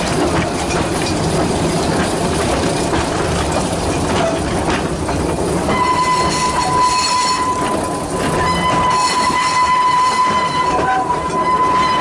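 Live steam model locomotive's whistle sounding a steady, held note from about halfway through to the end, over a continuous rushing background.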